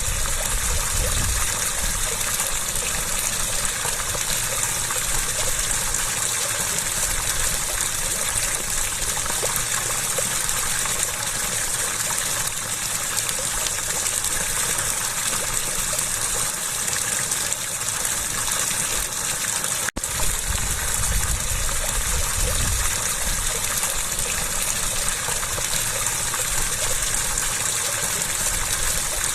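Steady rush of flowing water, an even hiss-like gush without change, broken once by a split-second dropout about two-thirds of the way in.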